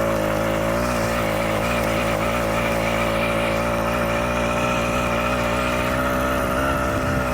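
Small 80cc two-stroke engine bolted to a mountain bike, running at steady revs as it pulls the bike along.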